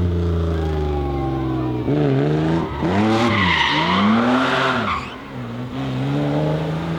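BMW M3 E30's S14 four-cylinder engine under hard driving, its revs steady at first and then rising and falling sharply several times through gear changes. Tyres squeal briefly about three to four seconds in.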